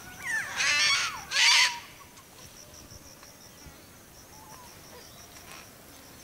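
Wild birds calling: a few loud, harsh screeching calls in the first two seconds, then quieter background with scattered small chirps and a faint, high, evenly pulsing trill.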